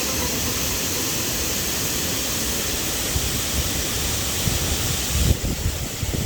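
Waterfall rushing, a steady even roar of falling water. About five seconds in it turns duller, with gusty low rumbling, and then it cuts off abruptly.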